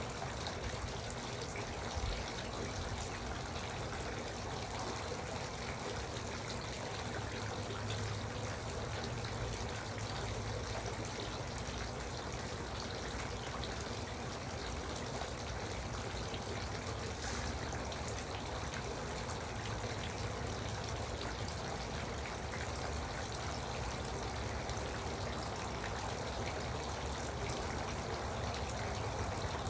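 Garden water fountain running steadily, water trickling and splashing into its basin.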